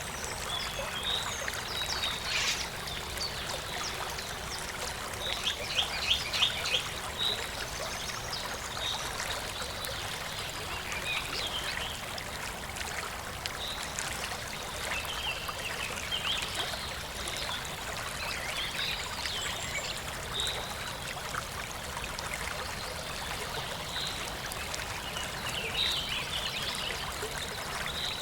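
A stream trickling steadily, with small birds calling over it: short high chirps every second or so and a quick trill of repeated notes about five seconds in.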